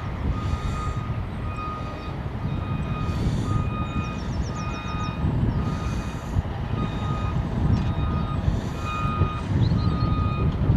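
Reversing alarm of a heavy vehicle, beeping steadily about once every second and a bit, each beep about half a second long, over a steady low rumble.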